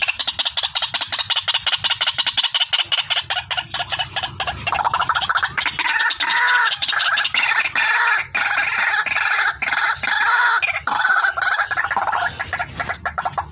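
White-breasted waterhen (ruak-ruak) calling: a fast, unbroken series of harsh, repeated croaking notes, several a second, which swells to its fullest in the middle and eases off again near the end.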